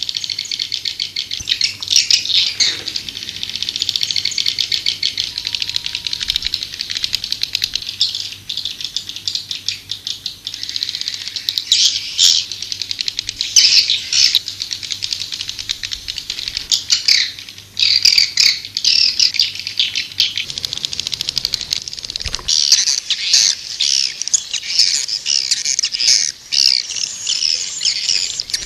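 Swiftlets twittering: a dense, continuous chatter of rapid high chirps and rattling trills. It is a swiftlet call ('walet panggil') sound of the kind played to lure swiftlets.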